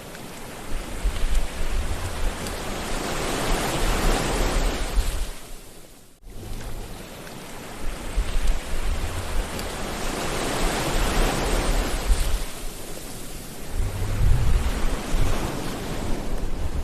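Sea waves breaking and washing ashore, the surf swelling and fading in slow surges over a low rumble. The sound drops out abruptly for a moment about six seconds in before the next wave builds.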